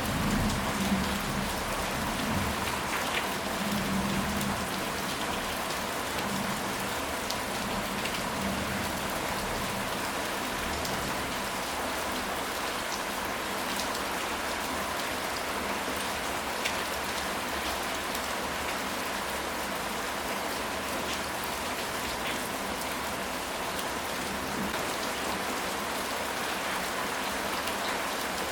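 Steady rain falling, a dense even patter of drops, with a low rumble in the first few seconds.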